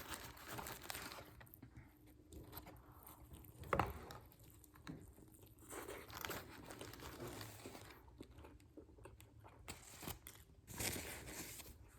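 Close-up eating sounds: biting into and chewing a fried chicken sandwich on glazed donut buns, with soft crunches and some crinkling. There is a sharper crunch about four seconds in.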